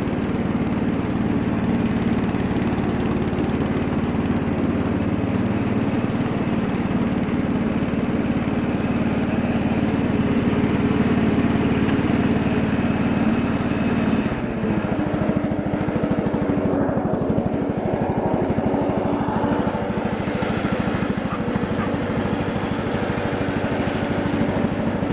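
Bolens 1256 garden tractor engine running steadily; its note changes about halfway through.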